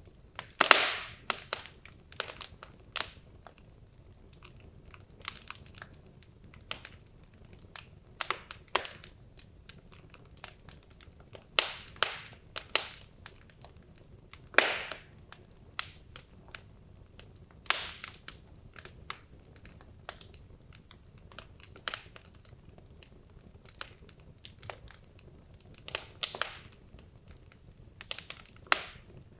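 Wood logs burning in a fireplace: irregular crackles and sharp pops from the burning wood over a faint low hiss of the fire, with a few louder pops, the loudest about a second in.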